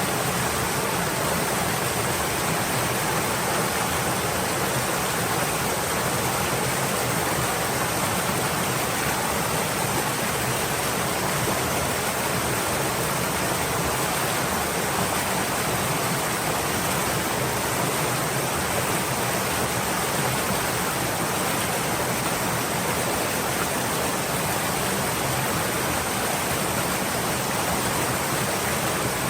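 Stream water flowing, a steady even rush of water noise with no changes.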